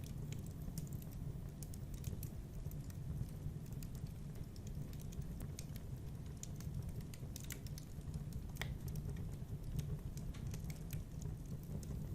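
Wood fire burning in a fireplace: a low steady rumble of flames with irregular crackles and pops, a couple of sharper pops past the middle.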